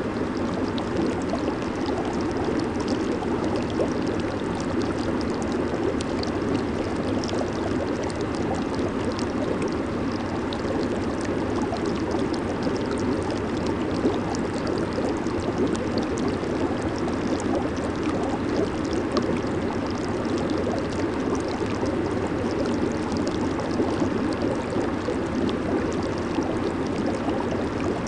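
Hot tub jets running, a steady rush of churning, bubbling water.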